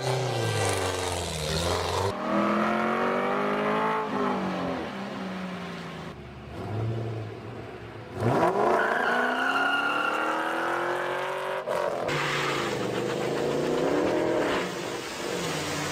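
Stunt car engines revving up and down repeatedly, the pitch climbing and falling over several abrupt cuts. In the last few seconds an engine is held high while spinning tyres hiss through a burnout.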